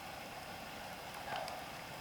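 Faint steady hiss, with a brief soft rustle about a second and a half in.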